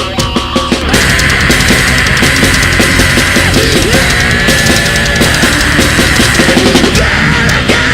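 Heavy metal music: distorted electric guitars and drums, with the full band crashing in about a second in and playing on loud and dense.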